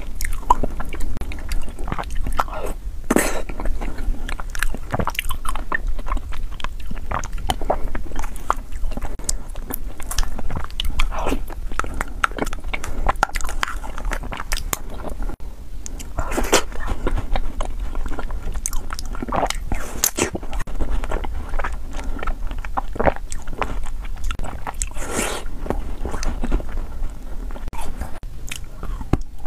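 A person chewing and biting into a red ice-cream dessert close to the microphone, with many irregular sharp crunches throughout.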